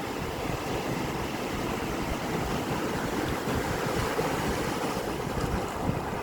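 Sea surf washing in steadily, a continuous rushing noise with some low rumble.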